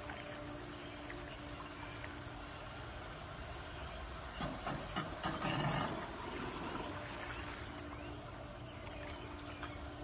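Pool water trickling and sloshing as an Aiper Seagull 3000 robotic pool cleaner works the pool, over a steady low hum. A louder splashing stretch lasts about a second and a half in the middle.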